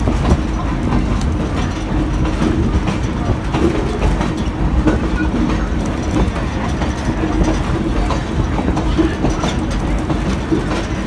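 A railroad passenger car rolling along the track: a steady rumble of wheels on rail with faint scattered clicks.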